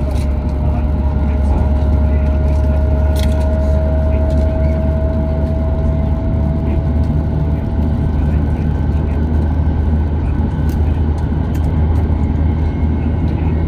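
Cabin noise of a Hokuriku Shinkansen train pulling away from a station: a steady low rumble of the running train, with a faint motor whine that rises slowly in pitch as it gathers speed and fades out about two-thirds of the way through.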